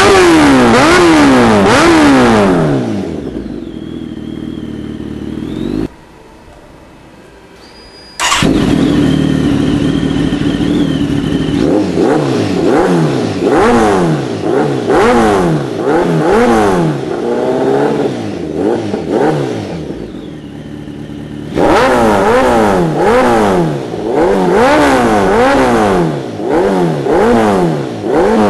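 Kawasaki ZX-10R Ninja's inline-four engine revved repeatedly through an aftermarket Speed Pro MotoGP exhaust, its pitch climbing and falling in quick blips. The sound drops low for a couple of seconds about a quarter of the way in, then cuts back in suddenly and the revving carries on.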